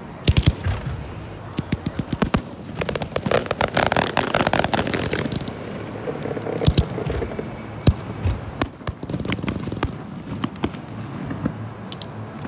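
Fireworks going off close by: a string of sharp bangs and cracks, with a dense, rapid crackling run about three seconds in.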